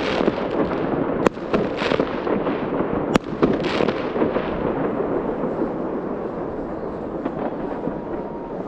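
Fireworks salute bursting: a dense run of bangs and crackles, with two sharp cracks about a second and three seconds in, thinning out toward the end.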